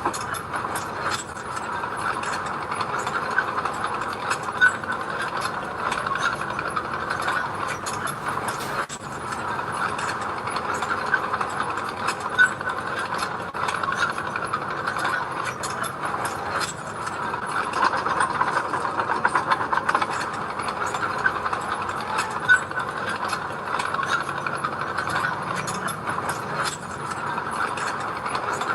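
Mini bulldozer working: its engine runs steadily under a continuous dense clicking and clanking of the machine.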